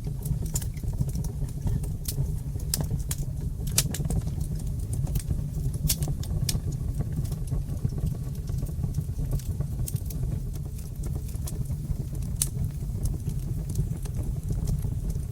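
Fire in a fireplace crackling: sharp pops and snaps over a steady low rumble of flames, the pops coming thick and fast in the first half and only now and then later on.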